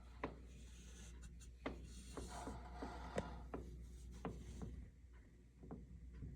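Faint scattered light clicks and brief scraping from hands working on the dryer's panel screws and sheet metal, with a short rasping stretch a couple of seconds in.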